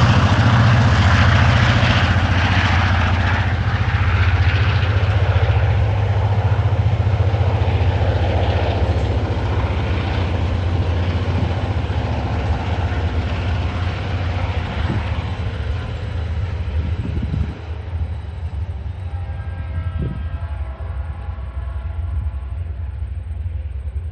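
Coal train hauled by diesel locomotives working up a grade: a deep, steady engine rumble that slowly fades, with a few clicks of wagon wheels over the rails. Faint high ringing tones appear over the last few seconds.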